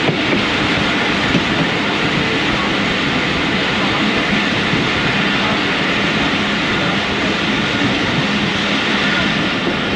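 Passenger train running fast on the track, a steady noise of wheels on rail as the coach enters a station at speed.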